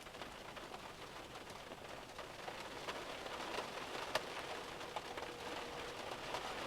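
Pouring rain, an even hiss dotted with the ticks of individual drops striking a surface.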